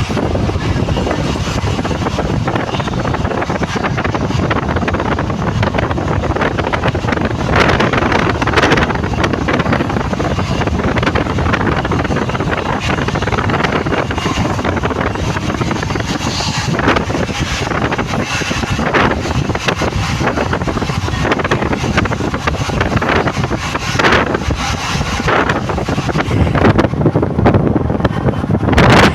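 Steady noise of a moving vehicle, with wind buffeting the microphone and a few brief gusts.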